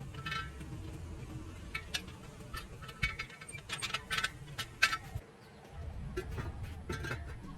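Irregular light metallic clinks and taps, with a brief ringing after several of them, like small metal pieces being handled.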